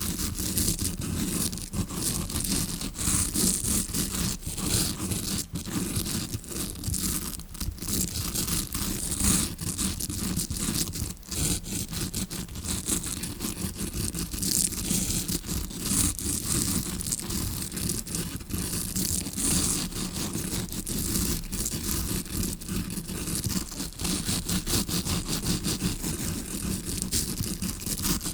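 Tawashi scrubbing brush scratching and rasping directly against a recorder's microphone in continuous quick strokes, imitating an ear pick as heard from inside the ear.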